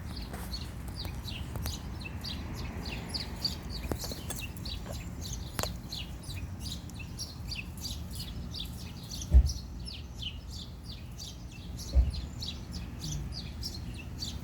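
Small birds chirping over and over, a quick run of short high chirps about three or four a second. Two brief low thumps, one about nine seconds in and one about twelve seconds in, are louder than the birds.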